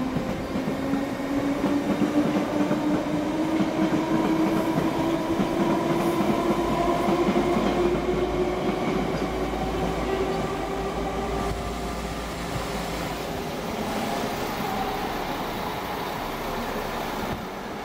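An electric train pulling away, its traction motors whining with a pitch that climbs steadily for about twelve seconds and then levels off, over the rumble of its wheels.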